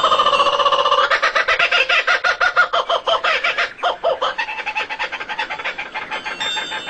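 A bird calling in a fast, even run of clucking or chattering notes, many to the second. The run is loudest over the first three seconds, breaks briefly, then carries on more weakly.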